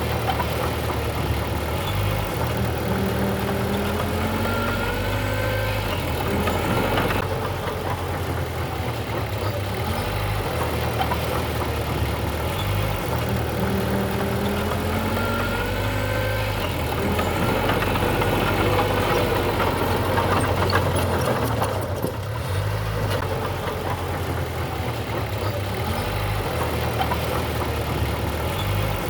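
Diesel engine of heavy earthmoving machinery running steadily. Its low note shifts every few seconds, and faint rising and falling whines sit above it.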